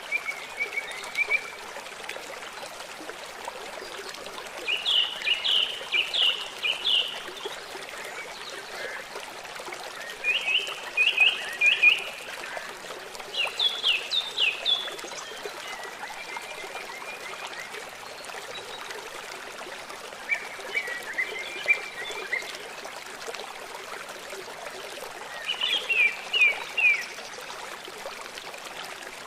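Songbirds singing short phrases of quick repeated notes, about six phrases a few seconds apart, over the steady rush of flowing water such as a forest stream.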